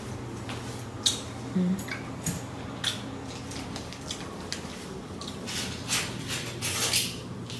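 Scattered light clicks, knocks and rustles of handling and movement in a small room, over a steady low hum.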